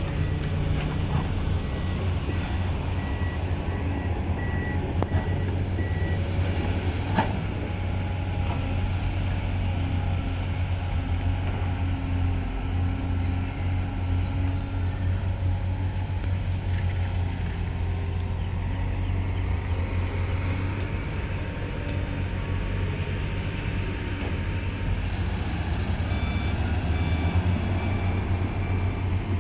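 Heavy diesel engines of an excavator and dump truck running steadily with a deep drone, while a truck's reversing alarm beeps in a steady pulse for the first few seconds and again near the end. A single sharp knock sounds about seven seconds in.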